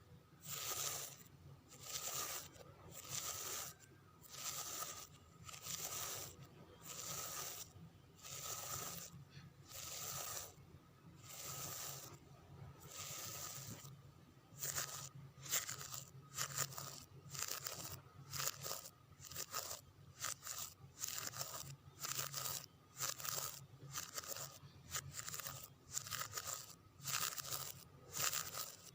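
Long fingernails scratching a surface in repeated raspy strokes, about one a second at first, then shorter and quicker strokes from about halfway through.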